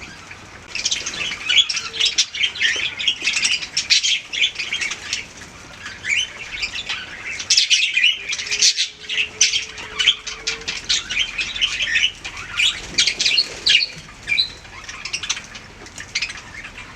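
Budgies chattering and warbling in a rapid, continuous stream of high chirps and squawks, starting about a second in with a couple of brief lulls.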